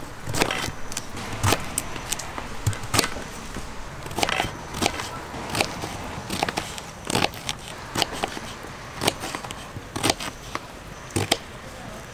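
Rain, with large drops tapping irregularly, a few a second, over a steady hiss.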